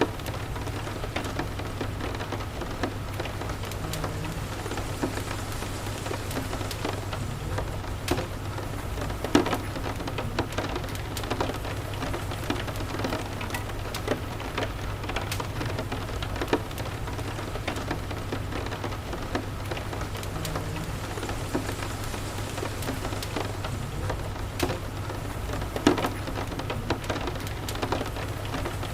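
Steady rain with a low, steady rumble beneath it and scattered sharp crackles and pops from a wood fire, the loudest about nine seconds in and near the end.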